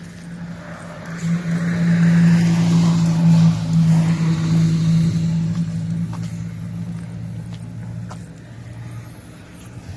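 Truck engine running with a steady low hum, growing loud about a second in and then slowly fading away.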